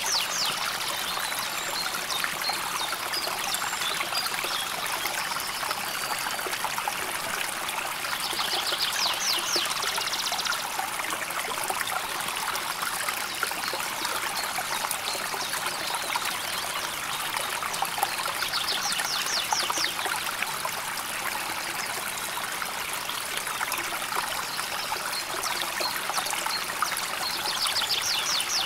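River water flowing steadily over stones, a continuous trickling and babbling rush. A high, rapid trill lasting a second or two comes in three times, roughly every nine seconds.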